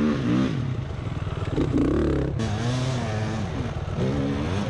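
Beta 300 RR two-stroke dirt bike engine being ridden, its revs rising and falling repeatedly as the throttle is worked.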